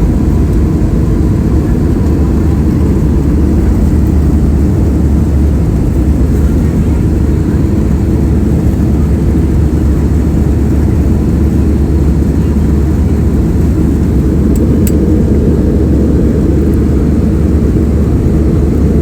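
Airliner jet engines at takeoff power, a loud steady low rumble with rushing air, unchanging throughout.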